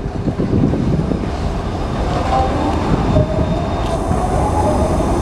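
Locomotive-hauled passenger train rolling by on the rails with a steady low rumble. About two seconds in, a high squeal joins it and wavers in pitch.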